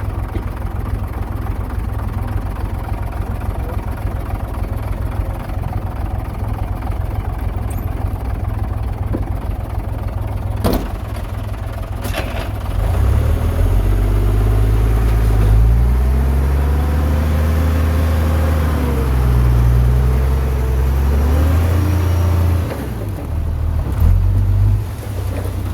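Heavy diesel earthmoving machinery running with a steady low rumble. About halfway through, an engine revs up under load, its pitch rising and falling for several seconds before it drops back. Shortly before that come two sharp knocks.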